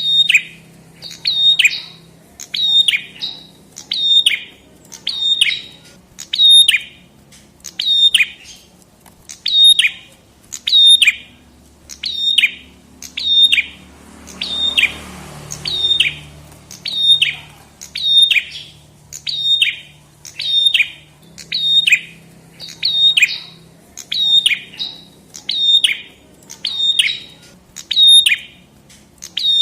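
Prenjak kepala merah (red-headed prenjak) calling over and over, about once a second, each a sharp chirp that drops quickly in pitch. A brief rush of noise sounds near the middle.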